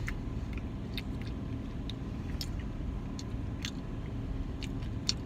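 Steady low rumble of an idling car heard from inside the cabin, with scattered small clicks and scrapes of a spoon in an ice-cream cup and some chewing.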